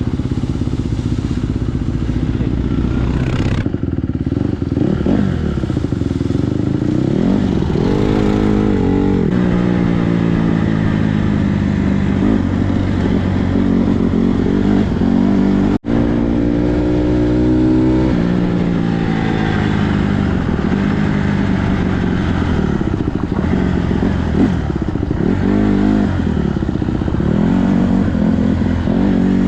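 Dirt bike engine being ridden, its revs rising and falling again and again as the throttle is opened and eased off. The sound cuts out for an instant about halfway through.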